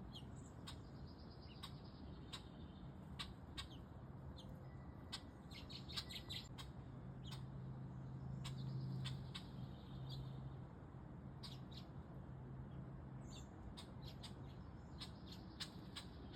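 Small birds chirping: many short, high chirps scattered throughout, over a low steady hum that grows louder in the middle.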